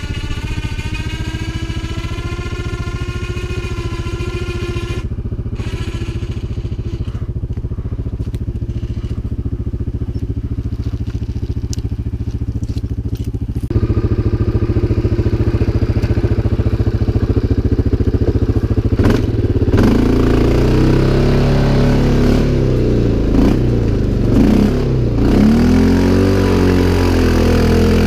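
CFMOTO 500 ATV's single-cylinder engine running steadily, then getting louder about halfway through. In the last third it revs up and down over and over as the quad is worked through terrain.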